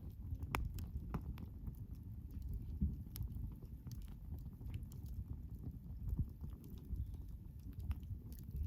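Campfire burning: a low steady rumble of flames with irregular crackles and sharp pops from the burning wood.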